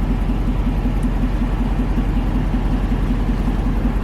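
Car engine idling, heard from inside the cabin: a steady low rumble with a fast, even pulse.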